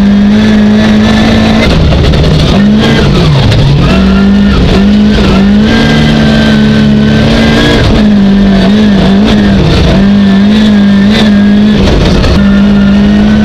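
Racing car's engine heard from inside the cabin, running loud at high revs. The engine note is held steady, drops and climbs back about three seconds in, and wavers briefly a few more times as the throttle is eased and reapplied.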